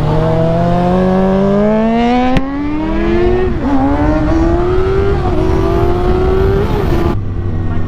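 600-class sport bike's inline-four engine under hard acceleration, its pitch climbing steadily through a gear. A quick shift about three and a half seconds in briefly dips the note before it climbs again. About seven seconds in the throttle snaps shut and the engine drops to a lower, steady note.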